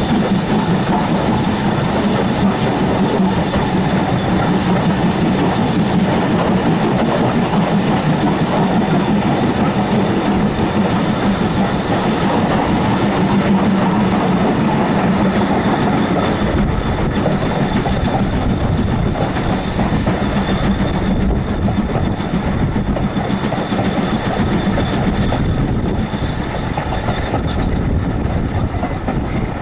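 Steam-hauled heritage passenger train on the move, heard from an open carriage window: steady running noise of the wheels on the rails, easing slightly near the end.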